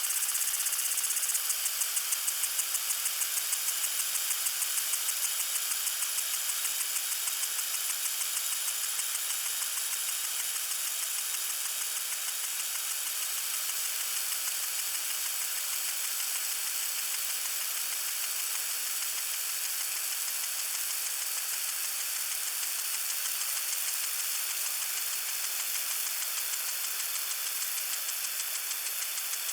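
Water sprinkler spraying: a steady hiss of water with a rapid, even pulsing of the spray, about four beats a second, that sets in about a second and a half in and slowly fades.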